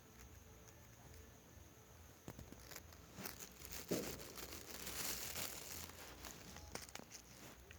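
Rustling and crinkling of something being handled, with scattered clicks. It starts about two seconds in, has a short thump about four seconds in, and is loudest soon after.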